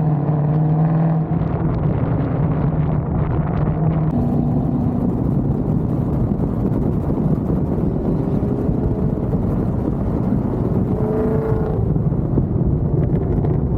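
Ford Mustang GT's V8 running through aftermarket long-tube-style headers and exhaust, a steady engine note that changes pitch about four seconds in and again near eleven seconds.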